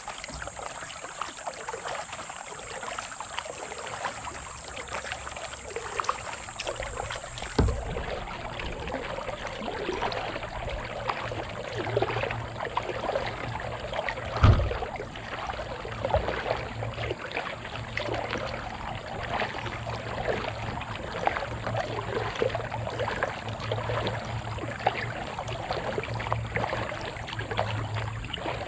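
Kayak paddle strokes splashing and dripping in the water, with two dull knocks, one about 8 seconds in and the louder one about 14 seconds in.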